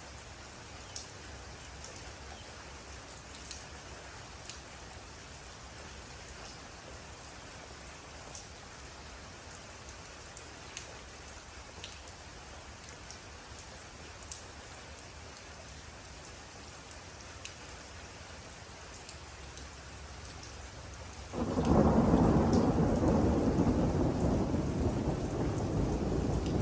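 Steady rain with single drops ticking sharply now and then. About twenty seconds in, a loud, close roll of thunder breaks in suddenly and rumbles on, slowly fading.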